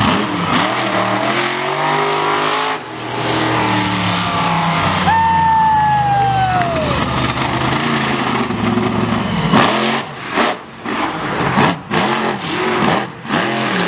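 A big racing engine running hard. A whine drops in pitch about five seconds in, then there are short bursts of revving near the end.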